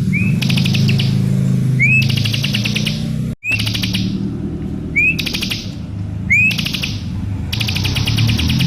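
Bar-winged prinia (ciblek) singing: phrase after phrase, each a short rising note followed by a fast buzzy trill, about one phrase a second. A steady low hum runs underneath, and the sound cuts out for an instant about a third of the way through.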